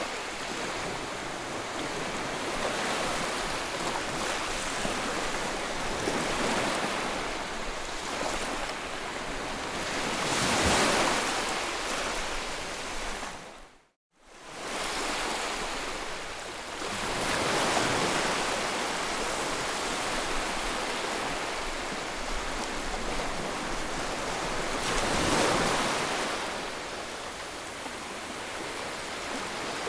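Ocean surf: waves breaking and washing in, swelling to a crest every several seconds and ebbing between. Halfway through the sound fades out to silence for a moment and fades back in, as at a loop seam.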